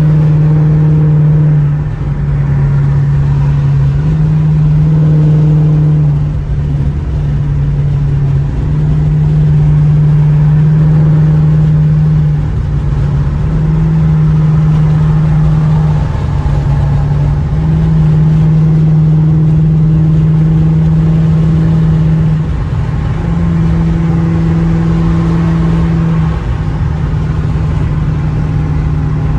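Straight-piped Dodge Charger R/T V8 exhaust droning steadily at cruise, heard from the driver's seat, with the tone easing briefly every few seconds as the throttle lifts and comes back.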